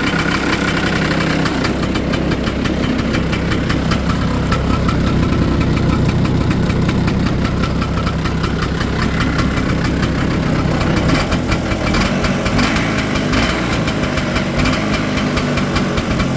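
Polaris Star engine running at idle shortly after a cold start, a steady fast firing beat with slight changes in its low tone partway through.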